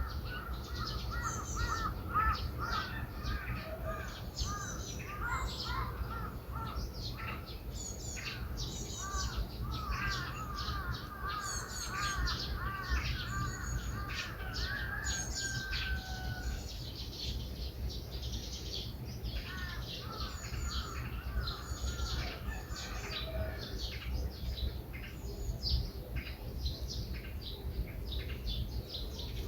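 Several wild birds chirping and singing. One bird repeats runs of quick, arched notes for several seconds at a time, while others give scattered high chirps. A steady low rumble runs underneath.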